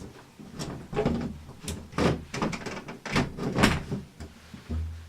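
Window vent panel being handled into place in an open window: a series of irregular knocks and scrapes against the frame, with a duller thud near the end.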